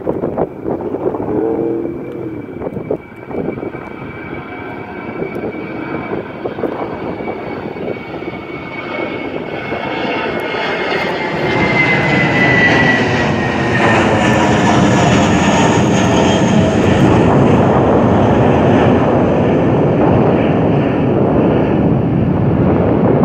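Jet airliner departing: the engine roar builds from about ten seconds in to a loud, steady rumble, with a high engine whine that falls in pitch as the aircraft passes. Wind buffets the microphone at the start.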